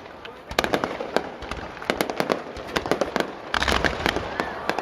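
Fireworks display: a rapid, irregular string of sharp bangs and pops from bursting aerial shells, coming thicker and louder from about three and a half seconds in.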